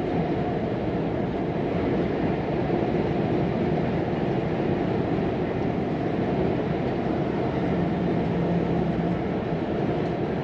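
Volvo FM 420 truck's 13-litre six-cylinder diesel and road noise heard from inside the cab while driving, a steady rumble with a faint engine hum.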